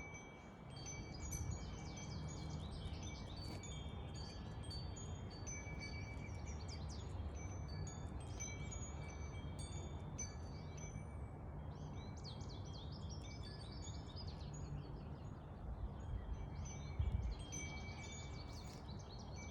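Morning birdsong: many quick chirps and trills from several birds, over steady high ringing tones and a low, even background hum.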